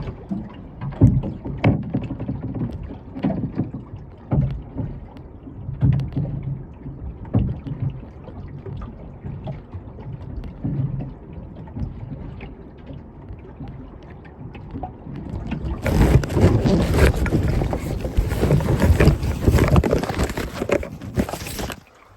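Small boat on the water: irregular knocks and thumps against the hull amid sloshing water. About sixteen seconds in, a louder steady rushing noise takes over and stops abruptly.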